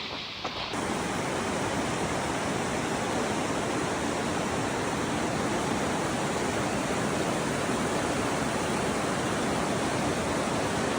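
Rushing water, a waterfall or fast mountain creek, giving a loud, steady roar that starts abruptly just under a second in.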